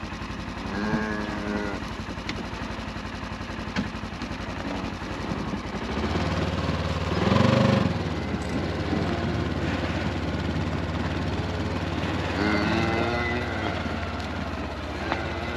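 A vehicle engine running steadily at low revs, its note shifting about six seconds in, with a few short calls over it, the loudest about halfway through.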